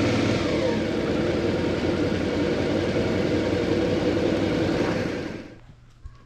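Motorcycle engine running under way, with a steady rush of noise over it; it cuts off abruptly about five and a half seconds in.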